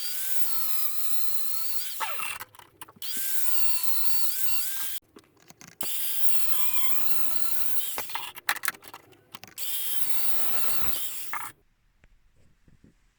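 Power tool cutting or grinding steel sections in four spells of a few seconds each, its motor pitch dipping and recovering as it bites into the metal. It stops about two-thirds of the way through, leaving a few faint knocks.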